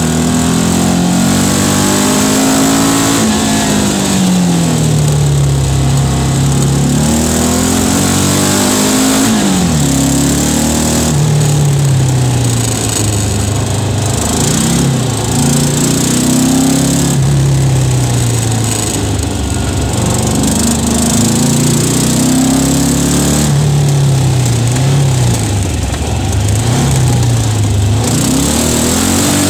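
Onboard sound of the RoadRat sprint car's engine being driven hard. The engine note climbs and drops again and again as it accelerates, shifts and slows through the course, with a steady hiss over it.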